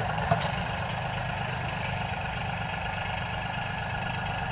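Tractor engine idling steadily with a low rumble, with a brief click about a third of a second in.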